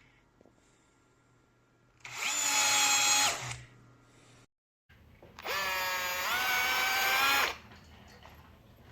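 Bosch GSR 12V-15 12-volt cordless drill-driver motor running in two short bursts with a steady whine. The first burst lasts about a second and a half. The second lasts about two seconds, and its pitch steps up partway through as the speed rises.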